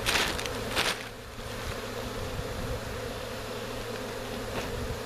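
Swarm of honeybees buzzing in a steady hum, with two short rustling swishes in the first second.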